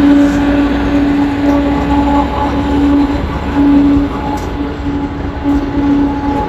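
Talgo passenger train passing at close range, its cars rolling by with a low rumble and a steady humming tone that breaks off briefly a few times.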